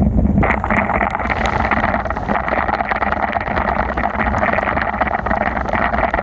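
Wind rumbling on the microphone of a bicycle ride in heavy rain, with a steady hiss of water and tyres on the soaked road that gets louder about half a second in. Many small ticks are scattered through the hiss.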